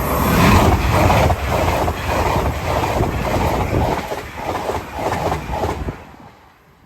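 LNER express passenger train passing close by at speed, its wheels clattering over the rails in a quick run of knocks. The sound drops away about six seconds in as the train clears.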